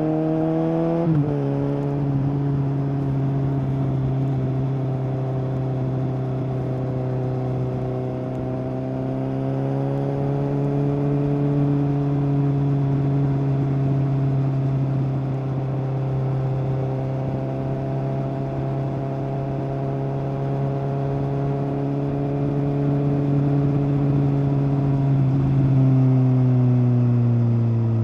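Suzuki GSX-S750 inline-four through a Yoshimura SQ11 exhaust with no dB killer and no catalytic converter, under way: the engine note drops sharply with a gear change about a second in, then holds a steady cruising note, and falls away near the end as the bike slows.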